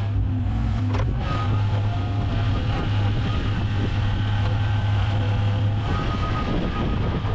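An engine running steadily at a constant speed, with a sharp click about a second in.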